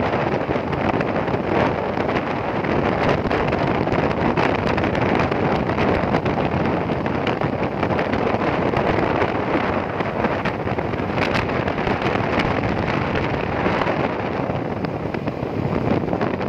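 Steady wind rush buffeting the microphone of a moving motorcycle, mixed with the bike's running and road noise.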